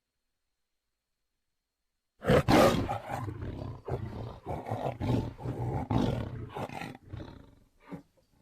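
Tiger roaring: after about two seconds of silence a loud roar breaks in, followed by a string of shorter calls, about two a second, that trail off near the end.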